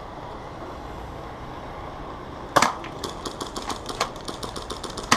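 Airsoft gunfire: after a stretch of quiet background, a loud sharp shot about two and a half seconds in, then a fast, uneven run of snapping shots.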